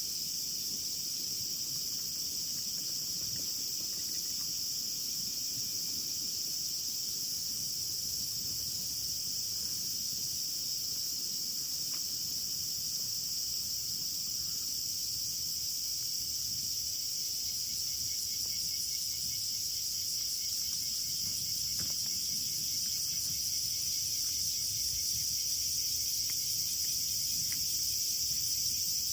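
A steady night-time insect chorus: a continuous high-pitched chirring that neither pauses nor changes for the whole stretch.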